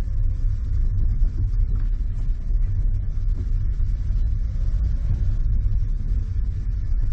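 Car driving, a steady low rumble with a faint engine tone that drifts slightly lower.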